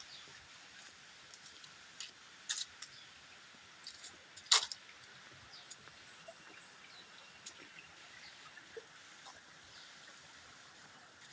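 Faint steady outdoor hiss broken by a few sharp short snaps or knocks, the loudest about four and a half seconds in.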